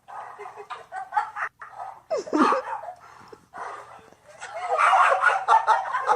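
A dog vocalizing, with a falling yelp about two seconds in, then a louder stretch of mixed noise in the second half.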